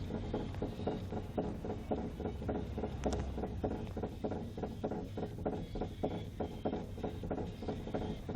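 Worn rear wheel hub bearing on a Mitsubishi Lancer X knocking in a steady, even rhythm of several knocks a second.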